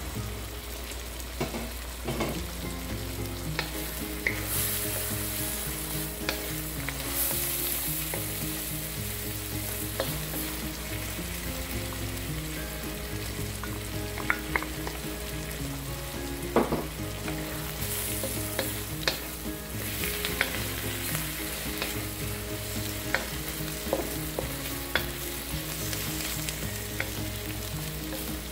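Sliced mushrooms sizzling in butter and olive oil in a wok, stirred with a wooden spatula that clicks and scrapes against the pan now and then.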